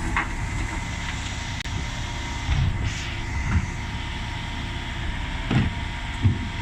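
Dennis Elite 6 bin lorry running with a steady mechanical drone and a faint steady whine, with a few dull knocks about two and a half, three and a half, five and a half and six seconds in.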